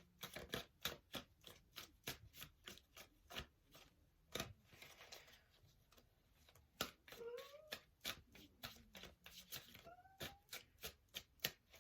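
Tarot cards being shuffled by hand: a long run of soft card clicks. In the second half a dog whimpers in his sleep, with a few short rising squeaky cries.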